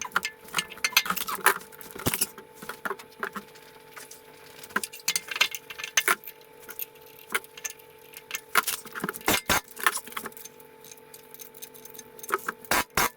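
Hand tools and metal engine parts clinking and clicking irregularly during reassembly, with a faster, more regular run of clicks near the end. A faint steady hum lies underneath.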